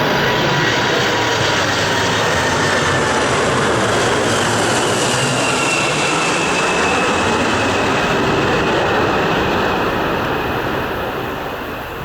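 Boeing 747-400 freighter's four jet engines, loud and steady, as the aircraft comes in to land and passes, with a high whine that slowly falls in pitch. The sound fades over the last two seconds.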